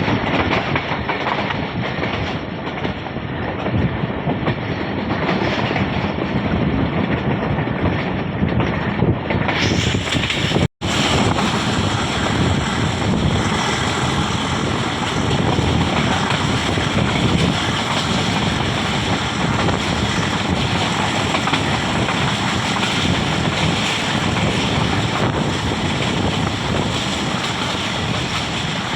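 Moving passenger train heard from aboard, its coaches running over the rails with a steady rumble and clickety-clack, with wind noise on the microphone.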